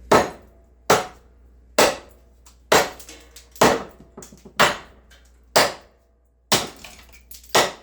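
Hand-forged 5160 truck-spring steel cleaver chopping into wood: nine hard chops, about one a second.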